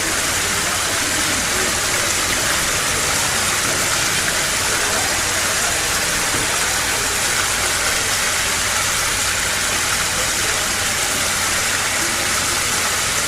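Steady rushing noise of fast-flowing floodwater, even and unbroken.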